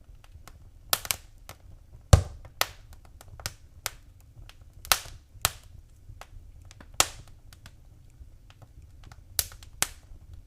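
Wood fire in a fireplace crackling, with irregular sharp pops and snaps over a faint low rumble of the flames.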